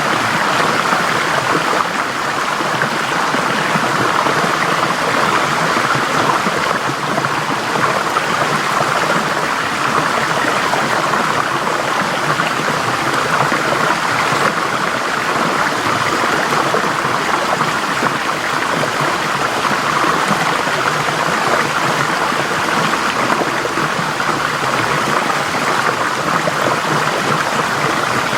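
A forest stream flowing over rocks: steady, unbroken rushing and babbling water.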